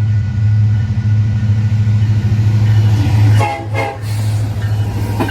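Locomotive running with a steady low rumble, and a short horn blast about three and a half seconds in.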